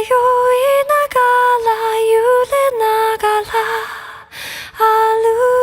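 Background song: a female voice singing slow, long-held notes.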